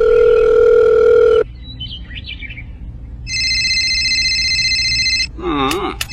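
Electronic tones. A steady low beep sounds for about a second and a half, then after a short quieter gap a higher, ringing steady tone lasts about two seconds. Near the end come a brief pitched vocal cry and a few clicks.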